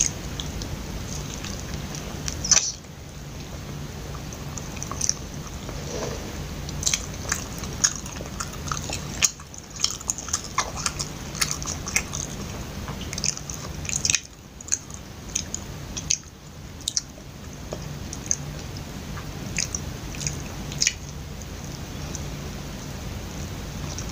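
Close-miked biting and chewing of a soft, sticky glutinous rice cake coated in ground peanuts (loh mai chee), with many short wet mouth clicks, over a steady low hum.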